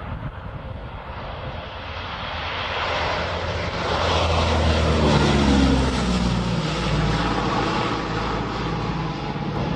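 Fighter jet making a low pass. The engine noise builds to its loudest about five to six seconds in and drops in pitch as the jet goes by, then cuts off suddenly at the end.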